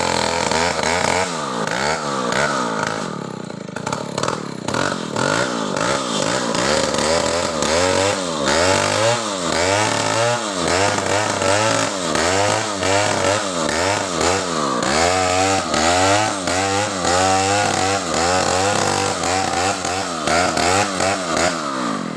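Stihl two-stroke chainsaw running while cutting a coconut palm trunk. Its engine pitch rises and falls over and over, about once or twice a second.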